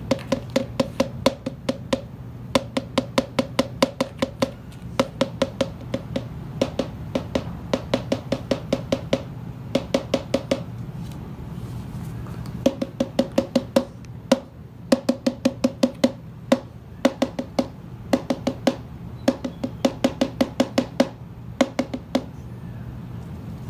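Cockatoo rapping its beak against something hollow: quick sharp taps, each with a short hollow note, about four to five a second in runs of one to three seconds with brief pauses. A steady low hum sits underneath.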